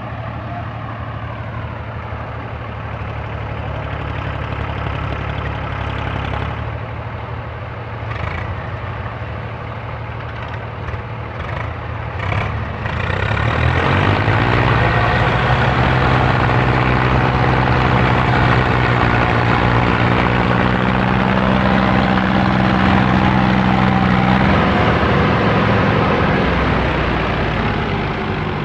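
Tractor diesel engines running, then revving up hard about halfway through and held at high revs for around twelve seconds before easing off near the end. The rise comes as the tractors pull under load to tow a combine harvester.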